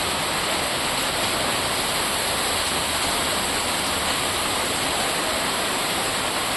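Heavy rain falling in a steady downpour, an even rushing hiss.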